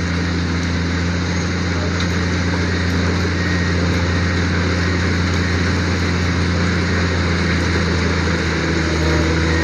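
Engine running steadily at a constant speed, a low, even drone.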